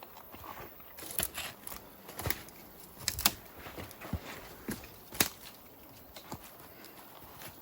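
Footsteps crunching on forest ground, irregular sharp clicks and snaps about once or twice a second over a low outdoor hiss.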